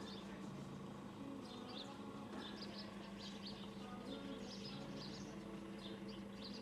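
Faint outdoor ambience: a steady low hum with scattered high bird chirps.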